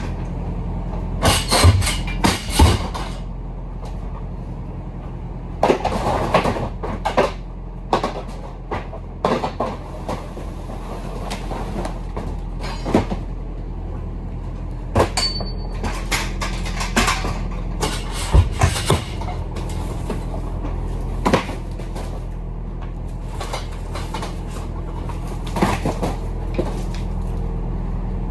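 Tractor-trailer's diesel engine running with a steady low hum, with irregular knocks, clunks and rattles on top throughout.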